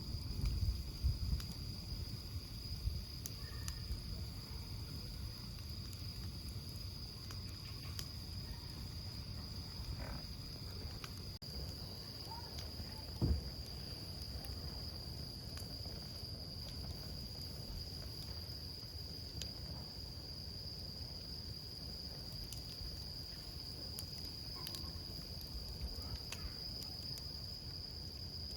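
Campfire burning with a low rumble and scattered small crackles, and one louder knock about 13 seconds in. A steady high-pitched insect trill, like a cricket's, runs underneath.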